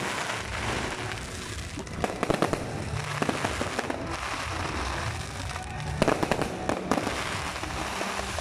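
Aerial fireworks crackling and popping over a steady hiss of sparks. Dense clusters of rapid pops come about two seconds in and again about six seconds in.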